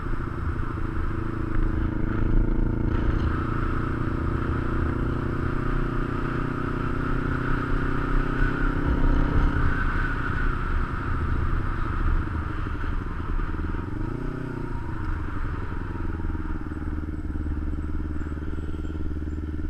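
Kawasaki Ninja 250's parallel-twin engine running steadily while the motorcycle is ridden, heard close up from a camera mounted on the bike. About two-thirds of the way through, the engine note briefly dips and then climbs again.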